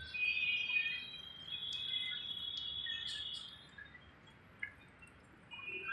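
Birds chirping, high calls that are strongest for about three seconds and then fade.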